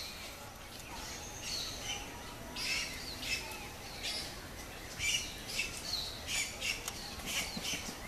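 Wild birds chirping and calling: a string of short, high, quick notes that come thicker from about a third of the way in.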